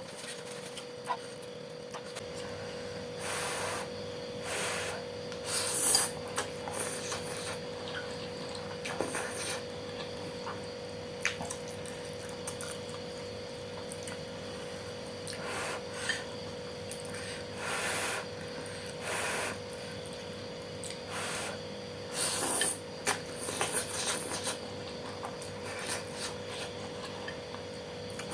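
Close-miked eating sounds of soupy noodles topped with bean sprouts: scattered short slurps and crunchy chewing, the loudest about six seconds in and again near twenty-two seconds, over a steady low hum.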